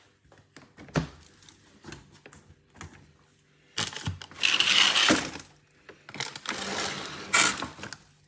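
Handling noises: a few sharp knocks and clicks, then two longer spells of rustling or scraping, the first about four seconds in and the second about six seconds in.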